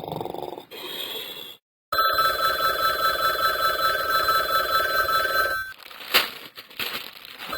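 A steady electronic ringing tone starts about two seconds in and lasts nearly four seconds, with a sharp knock a moment after it stops.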